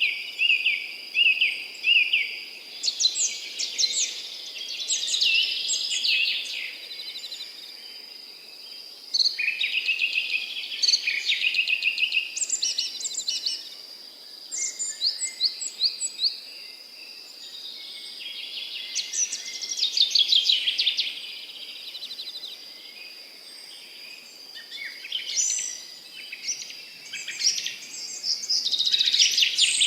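Several songbirds singing in overlapping bursts of rapid trills and chirps, a new phrase every few seconds, over a steady high-pitched insect buzz.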